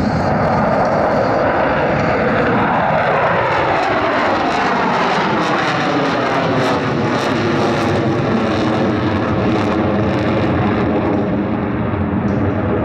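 Aircraft flying past: the engine sound drops in pitch as it goes by, then carries on as a steady engine drone as it moves away.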